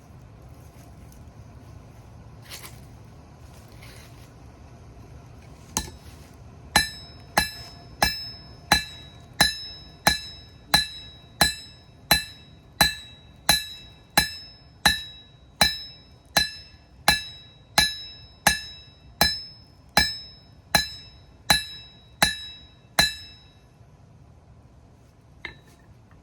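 Blacksmith's hammer striking metal on an anvil: a single blow, then a steady run of about two dozen ringing blows, a little over one a second, that stops a few seconds before the end.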